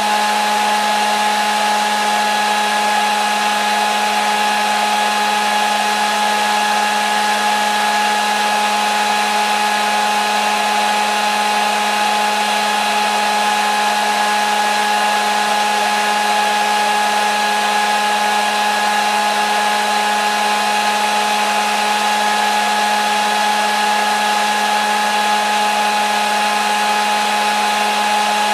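Hair dryer running continuously at a steady speed: an even blowing hiss with a constant motor whine, no change in pitch or level.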